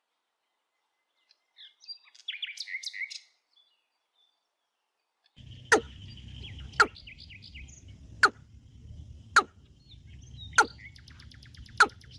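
A small bird chirps in a quick burst near the start. From about halfway in, a steady outdoor background with scattered bird chirps and a brief high trill runs under a sharp knock that repeats about once a second and is the loudest sound.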